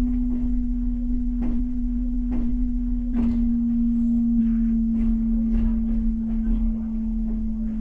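Passenger train carriage rolling slowly into a station: a steady humming tone that drops slightly in pitch about four seconds in, over a low rumble and irregular clicks and knocks from the wheels and running gear.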